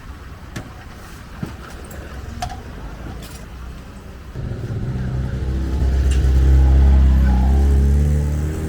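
A motor vehicle's engine passes close by: it swells in from about halfway through, is loudest for a couple of seconds, then eases off near the end. A few scattered light clicks come before it.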